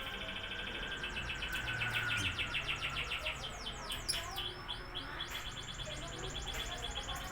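Lovebirds chattering: a fast, unbroken run of high chirps, several a second, with a few quick downward-sweeping notes about four seconds in.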